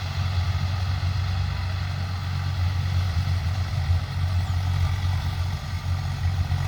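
Swaraj 744 FE tractor's three-cylinder diesel engine running steadily at a low, even speed.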